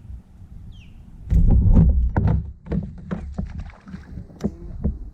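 Knocks and clunks of handling in a fishing kayak, gear or paddle striking the hull, after a loud burst of low rumbling about a second in. A bird chirps once near the start.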